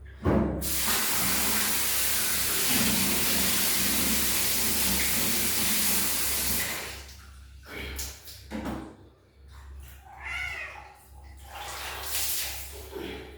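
Water running hard from a tap for about six seconds, then shut off. Short splashing and handling sounds follow, with a brief kitten meow near the end.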